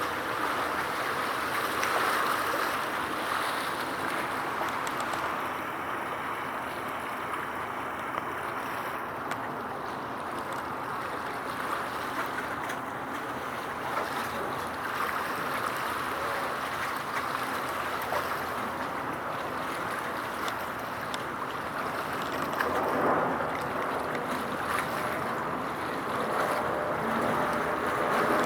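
Steady outdoor wind and water noise, an even hiss with wind buffeting the microphone; no distinct ship engine stands out.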